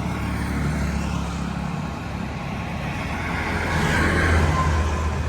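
Road traffic: a vehicle engine rumbles steadily, growing louder about four seconds in as it passes close by.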